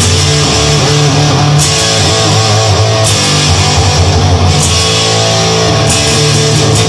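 Instrumental rock music led by electric guitar over steady bass, with a cymbal or snare stroke about every second and a half.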